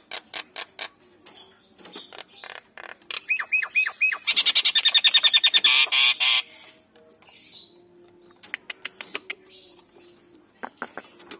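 Nias hill myna calling: a string of clicks, short whistles and squawks, then a loud, fast run of repeated notes about four seconds in that lasts around two seconds.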